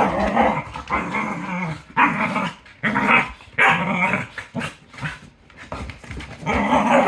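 Cardigan Welsh corgi play-growling, a series of rough growls and growly barks about once a second that sound like murder but are only play. The sounds ease off for a couple of seconds before a loud growl near the end.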